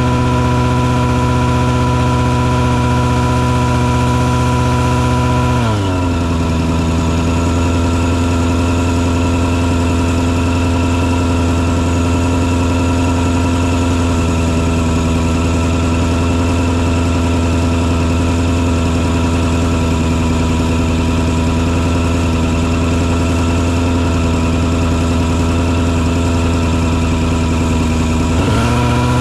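Engine of a mosquito-fogging truck running steadily. About six seconds in its pitch drops and holds lower, then rises back near the end.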